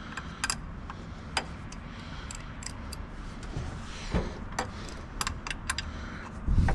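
Scattered metallic clicks and clinks of a steel crescent wrench being fitted to and turned on an AN oil line fitting, with a louder thump near the end.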